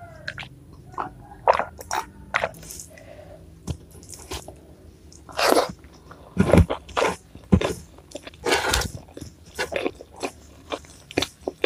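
Close-miked eating sounds: biting and chewing crunchy food, with irregular crunches and wet mouth clicks and a few louder crunches about halfway through.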